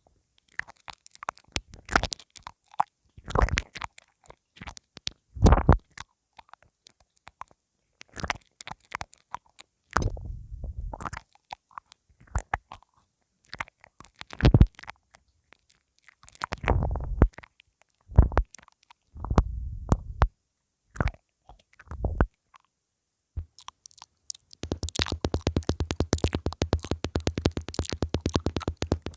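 Close-up mouth sounds of a pin microphone being nibbled: irregular sharp clicks and bites, some with deep muffled thumps from mouth contact on the mic. Near the end a dense, fast run of ticks sets in.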